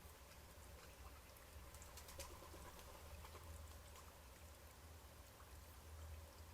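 Near silence: a faint steady outdoor background hiss over a low hum, with a few faint clicks about two seconds in.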